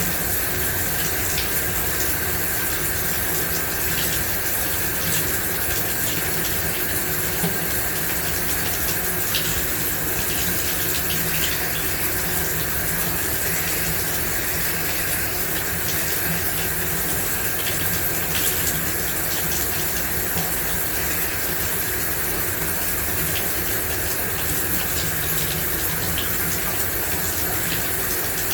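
Shower running steadily, water spray hissing and splashing, with now and then a brighter drip or splash.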